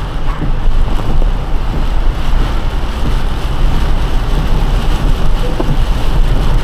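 Car driving on a rain-soaked road: a steady, loud rush of tyres hissing through water, over a low rumble of the car and road.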